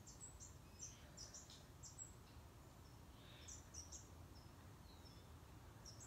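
Near silence with faint wild bird chirps: many short, high notes scattered through, over a low outdoor hush.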